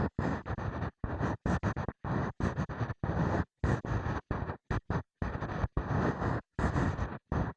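Ear-cleaning sounds on an ear-shaped microphone: an ear pick scraping and rubbing in short, irregular strokes, each a fraction of a second long, with dead-silent gaps between them.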